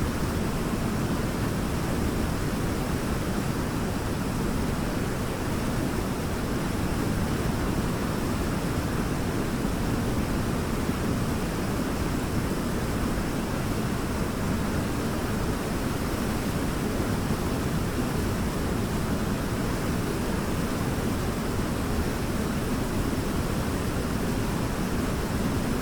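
Waterfall: a steady rush of falling water, strongest in the low and middle range, with no change in level.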